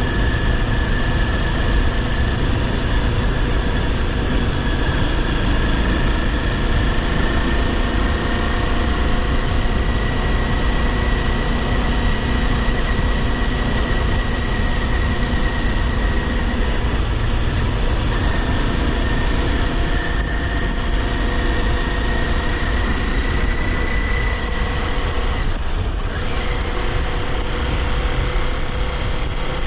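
Kawasaki Ninja 400's parallel-twin engine running at a steady cruise under a low rush of wind and road noise, the engine note drifting slowly in pitch. It dips briefly once near the end, as at a gear change.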